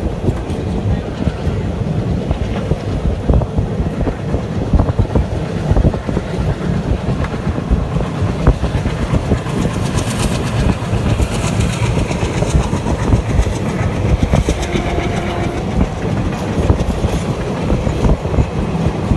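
Black Diamond Express passenger train running, heard from on board: a steady heavy rumble with the clatter of wheels over rail joints. About ten seconds in, a higher hissing rattle joins for a few seconds.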